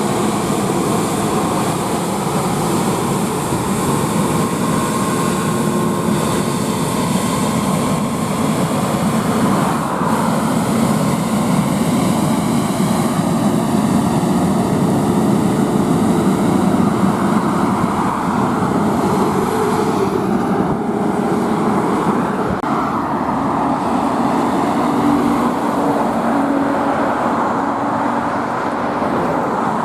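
Steady road traffic noise: vehicles, likely including trucks, passing continuously, with a few engine tones rising out of the rumble and fading.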